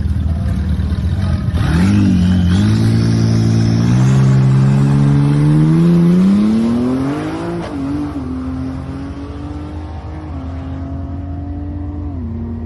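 Cadillac ATS-V's twin-turbo V6 launching hard on a drag strip: after a steady rumble at the line, the engine note climbs in pitch through several upshifts, each a short drop in pitch, then fades as the car pulls away down the track.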